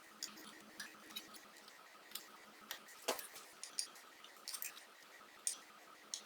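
Light, scattered clicks and taps of small metal parts and hand tools being handled while pistons are worked off an old VW engine.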